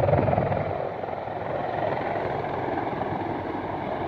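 Large military helicopter's rotors and engines running close by as it comes in to land, loud, with its downwash wind on the microphone. The sound drops a little about a second in, then holds steady.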